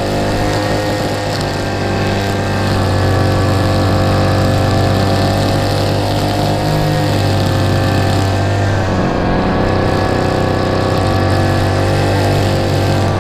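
An engine running steadily at a constant speed, its pitch shifting slightly about seven to nine seconds in.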